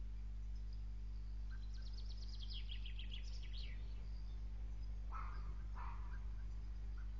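Bird calls over a steady low electrical hum. About two seconds in comes a rapid trill of high clicks that steps down in pitch, and about five seconds in two short harsh notes follow.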